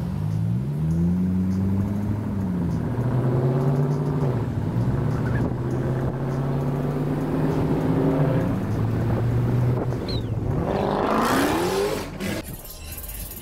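Car engine accelerating through the gears: its pitch climbs, drops back at each shift and climbs again, several times over. Near the end a last steep rev is cut off abruptly.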